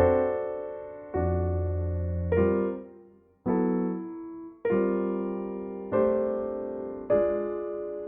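Slow piano music: sustained chords struck about once a second and left to ring and fade.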